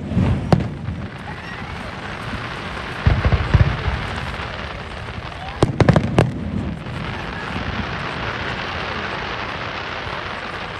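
Fireworks going off: sharp bangs at the start, a cluster of booms and bangs around three and six seconds in, and steady crackling between and after them.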